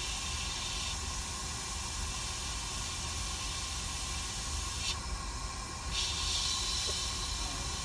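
Steady hiss of blown air at a microsoldering bench, its upper part briefly dropping away for about a second around five seconds in.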